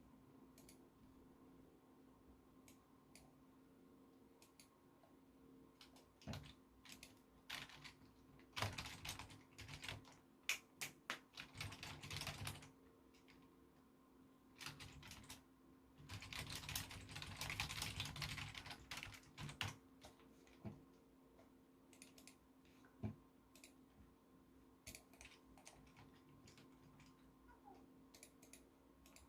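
Typing on a computer keyboard in two bursts of rapid keystrokes, one about a third of the way in and another just past halfway, with scattered single key presses between. A faint steady hum runs underneath.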